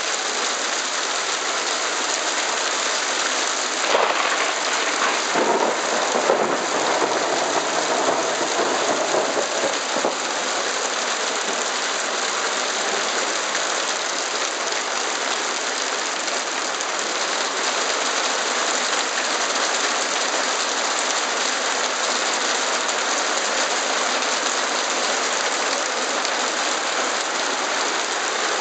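Heavy hail and rain pelting down in a dense, steady hiss of countless strikes, louder and more uneven with a few sharp hits between about four and ten seconds in.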